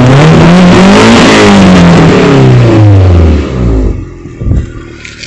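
Car engine with its full exhaust refitted, revved once: the pitch climbs to a peak about a second in, falls back over the next two seconds, and drops to a quiet idle near the end.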